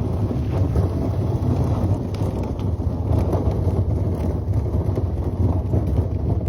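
Side-by-side utility vehicle's engine running steadily.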